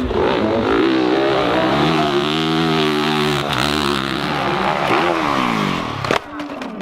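Dirt bike engine revving hard on a hill climb: its pitch climbs, holds high for a couple of seconds, then falls away, and the sound drops off about six seconds in.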